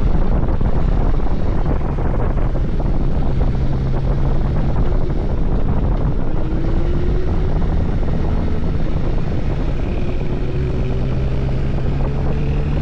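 Suzuki GSX-S1000GT's inline-four engine running under way, its note rising slowly a few times, with rushing wind noise.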